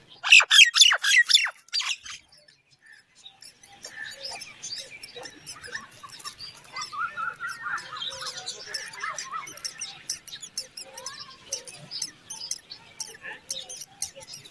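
Crested mynas calling. A loud run of about six sharp, falling calls comes in the first two seconds, then a short pause, then a steady jumble of fainter chirps and squeaks.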